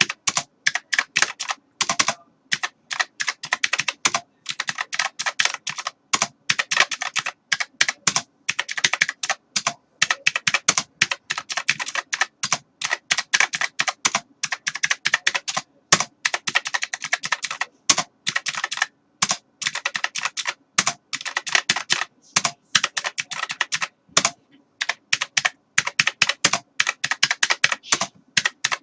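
Computer keyboard being typed on rapidly and continuously: dense runs of key clicks broken by brief pauses.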